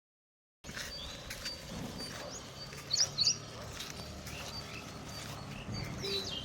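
Birds chirping now and then over steady outdoor background noise, with a short cluster of sharp rising chirps about three seconds in. It opens with a fraction of a second of dead silence at a cut between clips.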